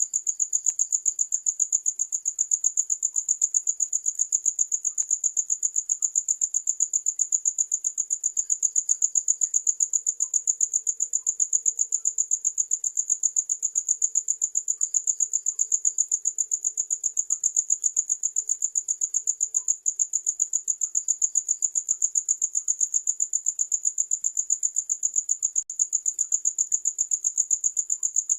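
Cricket chirping: a continuous high-pitched trill in rapid, even pulses.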